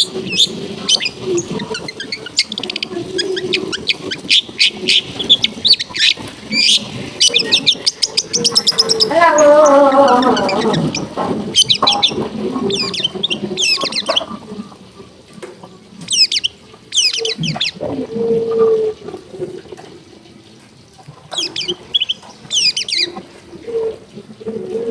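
Long-tailed shrike singing: rapid series of sharp high chirps and trilled phrases, broken by short pauses. A louder, lower drawn-out sound with a falling pitch comes about ten seconds in over a steady background murmur.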